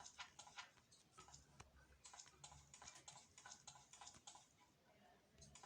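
Faint, quick, irregular tapping and clicking, several taps a second, like typing during editing.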